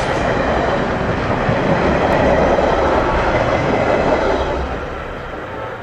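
Metra commuter train rolling past at speed, a steady rush of wheels and cars on the rails that fades away near the end as the train moves off.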